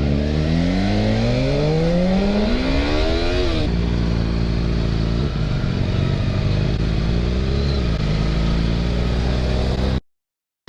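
Motorcycle engine accelerating hard, its pitch rising steadily for a few seconds before dropping sharply as the throttle closes or it shifts gear, then running on at a steadier pitch with small swells, over heavy wind rumble on the helmet microphone. The sound cuts out abruptly near the end.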